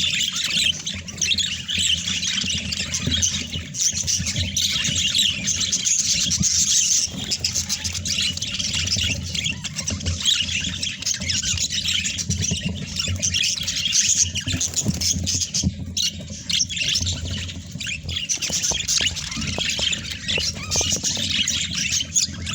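Budgerigars chattering and squawking without pause, dense busy warbling over a steady low rumble.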